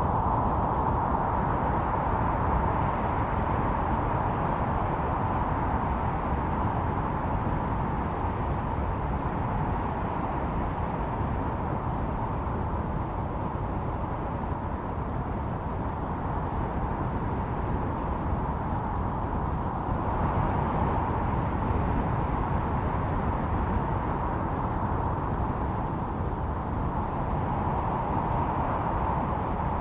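Blizzard wind blowing steadily: a continuous rushing noise with a low rumble, swelling and easing slowly and gusting up about two-thirds of the way through.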